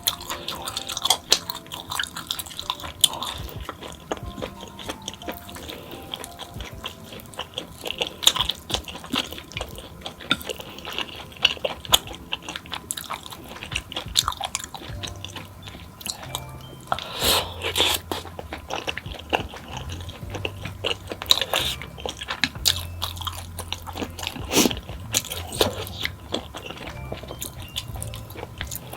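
Close-miked mukbang eating: repeated crunchy bites and chewing of fried snacks, with soft background music underneath.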